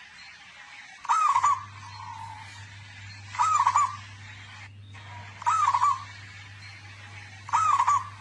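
Zebra dove (perkutut) cooing loudly, the same short looping phrase repeated four times about two seconds apart. A low steady hum sets in about a second in.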